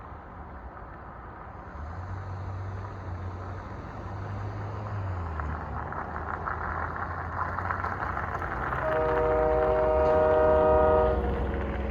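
Diesel freight locomotive approaching with its engine running and the noise building, then sounding one long multi-tone horn blast of about two seconds near the end.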